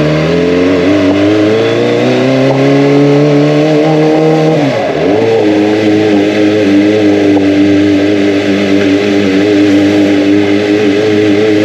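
Kawasaki ZX-25R's 250 cc inline-four engine and exhaust accelerating: the pitch climbs for about four seconds, drops sharply at a gear change near the middle, then holds fairly steady at higher revs.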